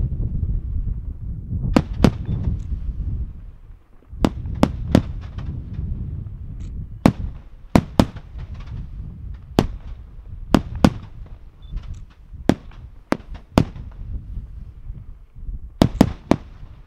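Fireworks display: aerial shells bursting in an irregular series of sharp cracks, over a continuous low rumble of booms and echoes. The rumble drops away briefly about four seconds in, and three cracks come in quick succession near the end.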